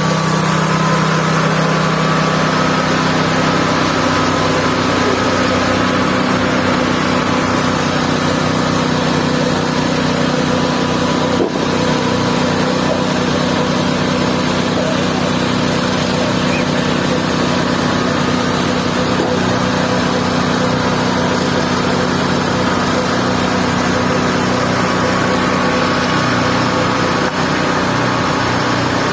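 Mobile band sawmill's engine running steadily under load, its pitch shifting about three seconds in.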